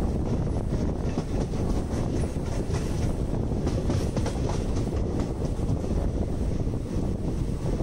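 Passenger train coach running along the track, heard from a coach window: a steady rumble of wheels on rails with faint, irregular clicks.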